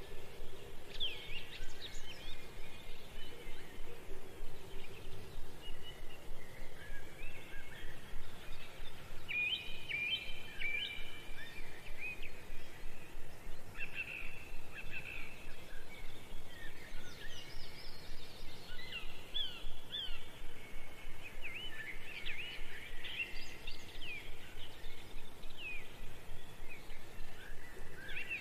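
Small birds chirping: many short, high chirps and quick downward-sweeping calls, coming in clusters.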